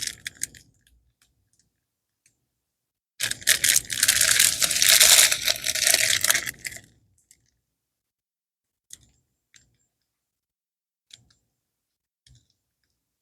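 Small plastic bags of diamond painting drills being handled, a dense rattling and crinkling for about four seconds, then a few faint separate clicks.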